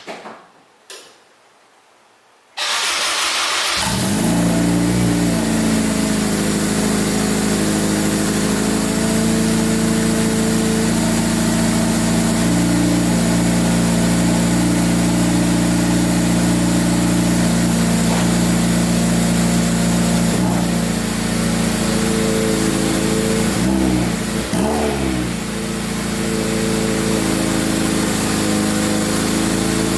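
Acura Integra engine started through its Vibrant dual-tip muffler: a brief crank, then it catches and settles into a steady idle. A couple of quick throttle blips come near the end.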